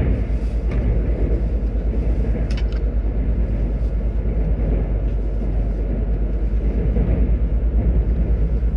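Steady low rumble of a KTX-Cheongryong high-speed train running, heard from on board.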